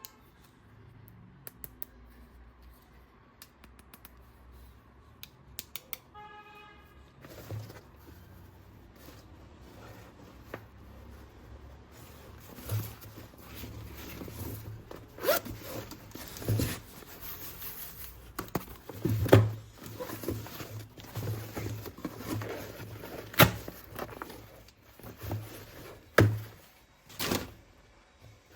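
Plastic toy packaging and parts being handled and unwrapped: rustling and tearing, with a brief buzzing rasp about six seconds in and several sharp plastic clicks later.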